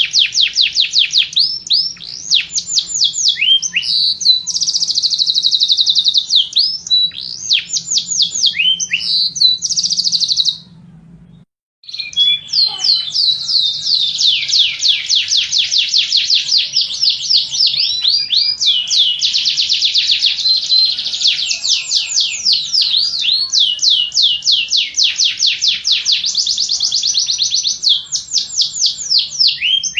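Canary singing: long, loud runs of fast repeated high trill notes, changing from one trill to the next. The song breaks off for about a second near the middle, then resumes.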